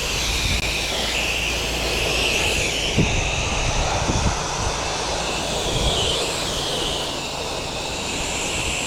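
Pressure washer spraying water onto a fence: a steady hiss that shifts as the spray moves across the surface, over a low hum from the machine. Two light knocks come about three and four seconds in.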